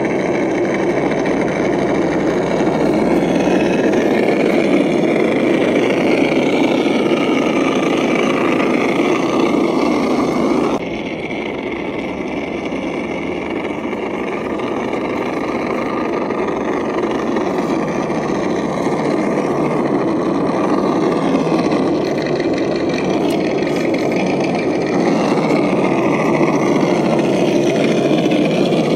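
Axial SCX10 RC crawler's electric motor and geared drivetrain running as it drives through muddy water, mixed with water sloshing around the tyres. The sound drops suddenly in level about eleven seconds in.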